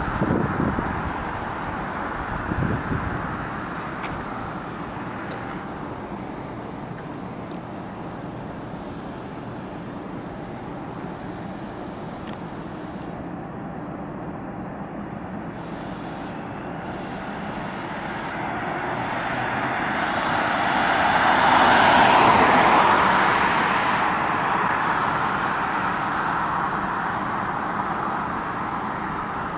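Steady road traffic noise, with one car passing close by: its tyre and engine sound swells about two-thirds of the way through, then fades.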